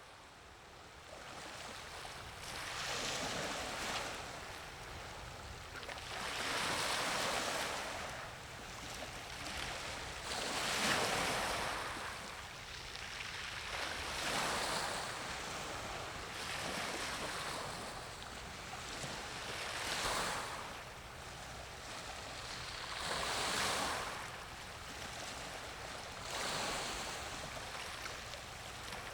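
Sea waves washing in, a rushing that swells and fades about every three to four seconds, over a faint steady low hum.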